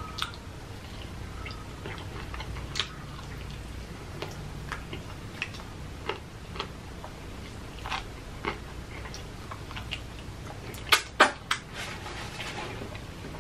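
Close-up eating of crispy fried chicken: mouth chewing with scattered crisp crunches of the breading, and two loud crunches close together about three-quarters of the way through.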